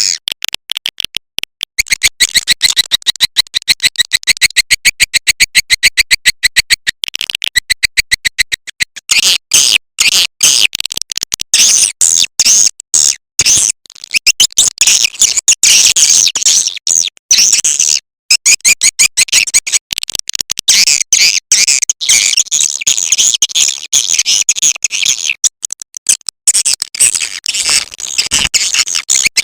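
Recorded swiftlet calls played as a lure sound for swiftlet houses: dense, rapid high-pitched chattering trills of clicks and chirps in continuous runs broken by brief gaps.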